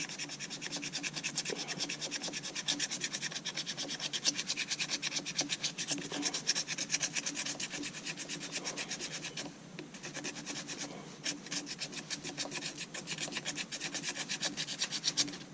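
Resinous pine fatwood being scraped into fine fire-starting tinder, in quick, regular rasping strokes with a short pause a little after halfway.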